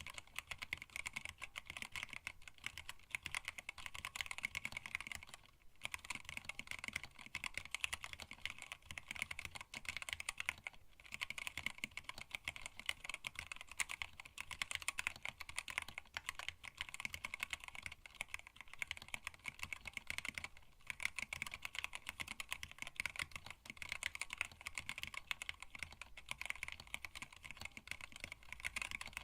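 Fast, continuous typing on a hand-wired split mechanical keyboard with Tealios linear switches, blank PBT keycaps and a stacked acrylic case, with short pauses about six, eleven and twenty-one seconds in.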